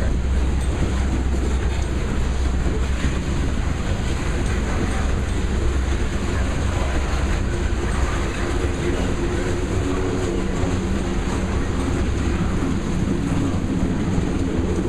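Loaded coal hopper cars of a freight train rolling past, their wheels on the rails making a steady, unbroken low rumble.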